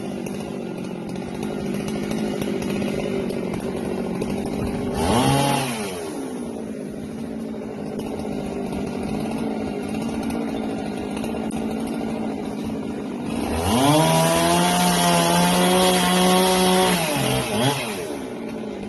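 Husqvarna 390XP two-stroke chainsaw idling, blipped briefly about five seconds in. Near the end it is revved to full throttle for about three and a half seconds, then drops back to idle after a quick extra blip.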